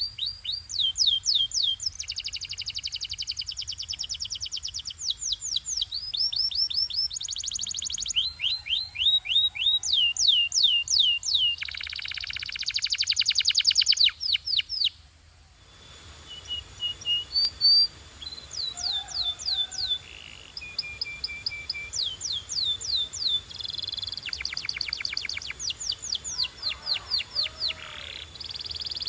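Domestic canary singing: fast trills and rolls of repeated, quickly falling notes, one phrase after another, with a brief pause about halfway through.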